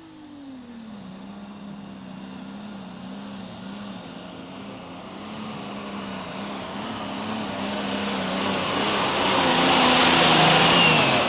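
Super stock pulling tractor's engine running hard under load down the track, growing steadily louder as it comes closer. Near the end its pitch drops sharply as the engine comes off power.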